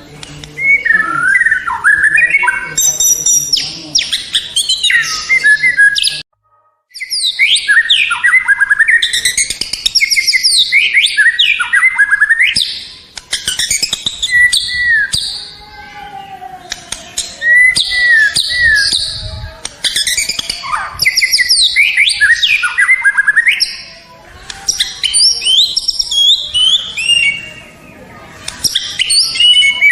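White-rumped shama (murai batu) singing a loud, varied song of rapid whistles, sweeping notes and fast note runs in phrases broken by short pauses. There is a brief cut to silence just after six seconds in.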